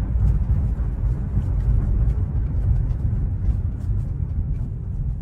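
Chevrolet Trax 1.4 turbo petrol SUV driving: a steady low rumble of engine and road noise. It shows no bad noises from the engine or underbody.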